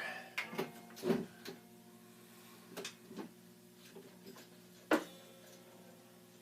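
Steady electrical hum from a guitar amplifier just switched off standby, with a few light knocks and clicks of handling and one sharp click about five seconds in.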